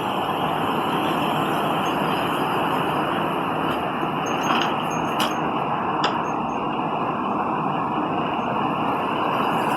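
Strong storm wind from Tropical Storm Isaias blowing hard: a loud, steady rush that starts suddenly, with a few faint ticks about halfway through.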